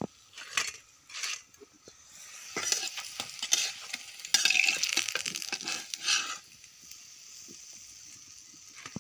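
Besan-battered brinjal slices sizzling in hot oil in a karahi, with a metal spatula clicking and scraping against the pan as slices are lifted out. The sizzling and scraping are loudest from a little before halfway to about two-thirds through, then only a faint sizzle remains.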